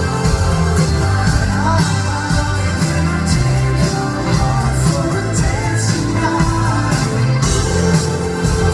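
Live pop-rock band playing with vocals heard loud through a phone's microphone: bass, drums and keys under a sung melody, drums marking a steady beat.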